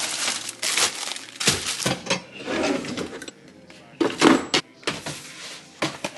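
Grocery packaging rustling and crinkling, with knocks and clatter as food items are handled and put away. A louder burst comes about four seconds in.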